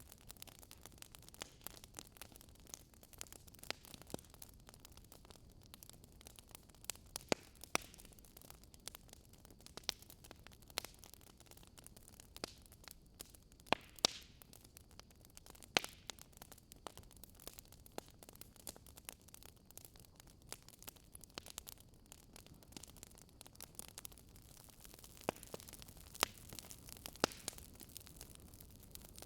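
Wood fire burning in a fireplace: irregular sharp crackles and pops over a low, steady hiss.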